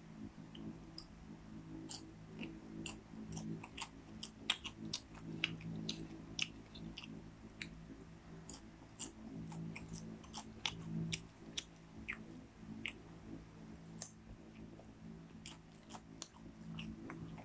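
Popcorn being chewed: many irregular crisp crunches and clicks, over a steady low hum.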